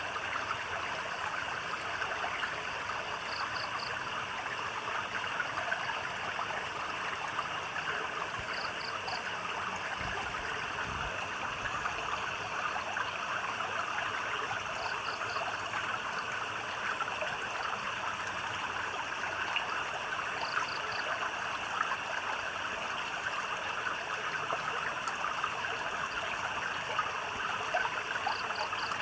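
Stream water babbling and trickling steadily, with a steady high insect chorus above it and a small animal's short three-pulse call repeating every six seconds or so.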